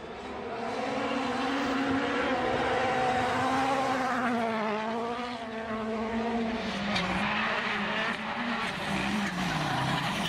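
Rally car engine held at high revs, its pitch wavering up and down with the throttle and sagging somewhat near the end.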